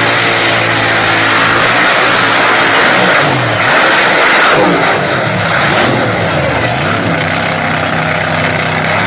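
Modified pulling tractor's engine running at full throttle under load, very loud, its pitch sagging and climbing again a few times about three to five seconds in and near the end.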